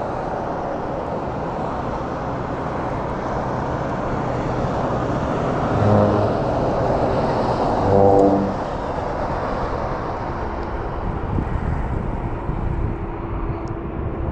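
A passing motor vehicle's steady rushing noise, swelling gently and fading near the end, with two short horn-like blasts about six and eight seconds in.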